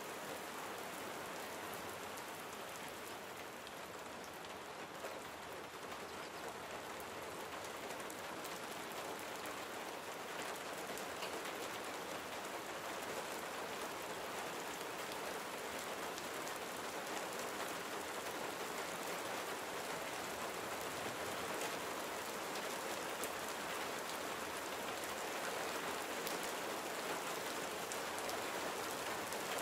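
Steady gentle rain falling on a surface, a dense even patter of drops, swelling slightly louder toward the end.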